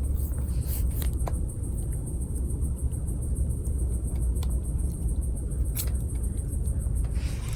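Wood fire crackling, with a handful of sharp pops over a steady low rumble.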